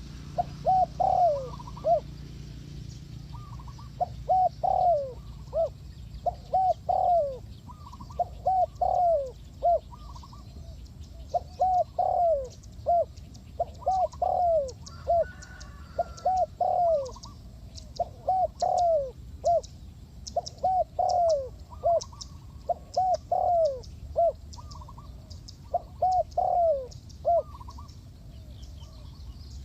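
Spotted dove singing: a phrase of three or four soft falling coos repeated about every two seconds, with a fainter call answering higher up.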